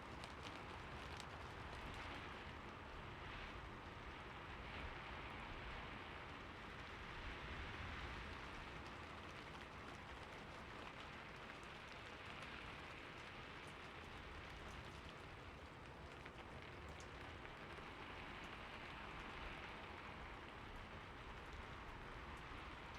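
Steady rain falling, an even hiss of drops with faint scattered drip ticks.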